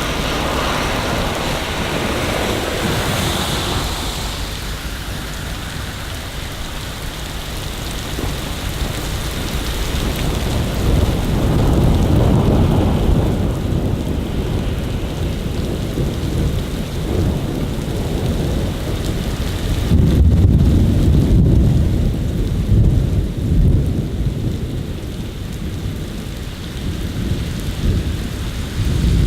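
Steady rain with rolling thunder: deep rumbles swell about a third of the way in and again, loudest, about two-thirds of the way in.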